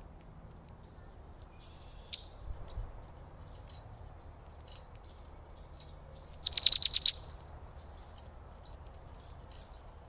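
A bird calling: a few faint high chirps, then a loud, quick run of about seven high notes lasting under a second a little past the middle.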